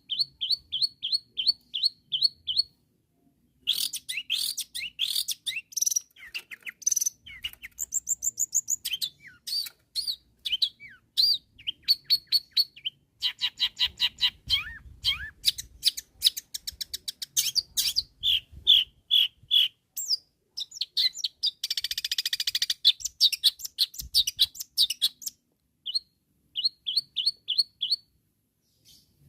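Long-tailed shrike in full, vigorous song: fast strings of repeated sharp notes and varied chattering phrases, with a harsh rasping burst a little past the middle and a few short pauses.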